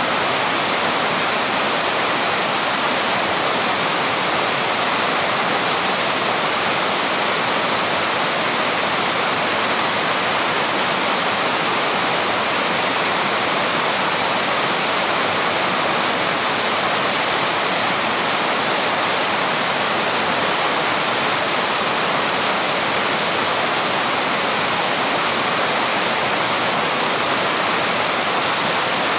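Small waterfall rushing, a steady, unbroken roar of falling water.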